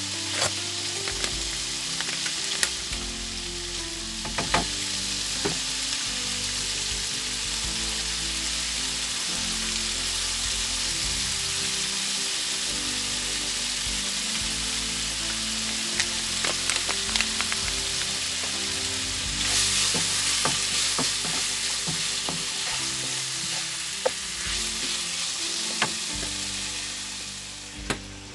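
Diced meat and chopped onion sizzling as they fry in a nonstick pan, a steady hiss with scattered knocks and scrapes of a wooden spoon stirring against the pan.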